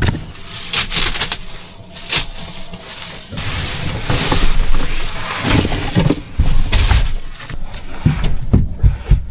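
Plastic bags being torn open and rustled while rolls of carpet are pulled out and handled, with scattered low thumps and scraping.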